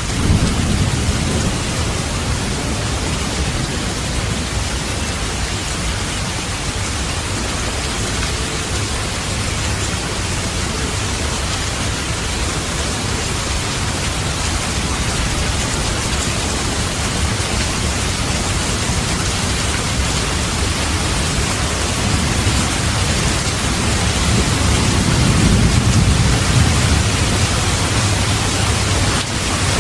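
Steady heavy rain with thunder rumbling low beneath it: a short rumble right at the start and a longer, louder roll about 25 seconds in.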